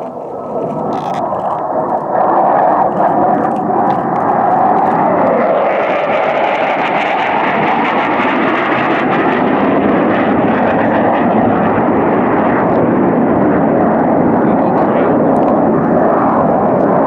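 Low-flying military jet passing: the jet noise builds over the first two seconds, then stays loud and steady. A tone within it drops in pitch about five seconds in.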